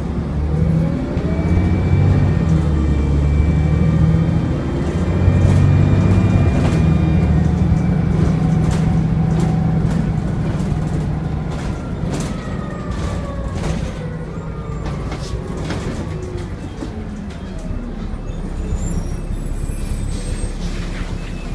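Volvo B7TL double-decker bus's turbocharged diesel engine pulling away and accelerating through the gears, the engine note rising in steps with a faint high turbo whistle above it. It is loudest in the first half and then eases off.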